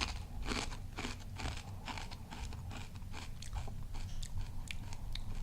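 A person chewing crunchy kettle-cooked potato chips: a run of irregular, crisp crunches.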